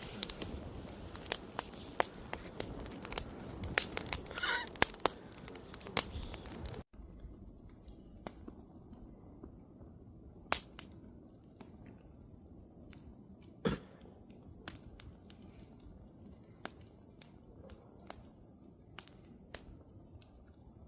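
Wood fire crackling and popping, with a quick run of snaps at first; after a brief break it goes quieter, with sparser pops and a couple of sharper cracks.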